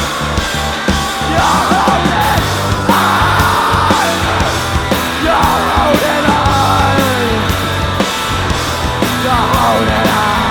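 Live rock band playing loudly, with steady drum hits under a singer's voice in four phrases.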